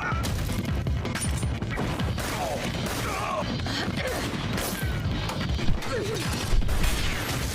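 Anime fight-scene soundtrack: background music mixed with a dense run of crashes, impacts and mechanical clanking sound effects.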